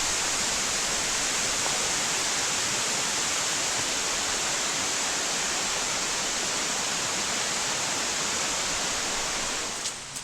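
Steady rush of a waterfall, Tom Springs Falls, its falling water making an even hiss; it drops away shortly before the end.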